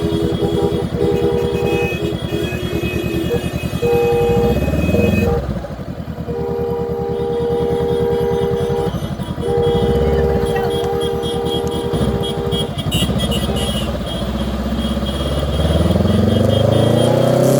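Motorcycle engines running and revving, their pitch rising and falling as the bikes speed up, with long steady vehicle horn blasts that stop and start about three times.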